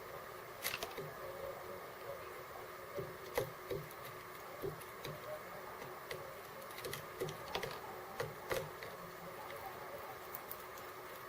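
Irregular small taps and clicks of birds pecking and cracking seeds at a feeder, over a steady hum.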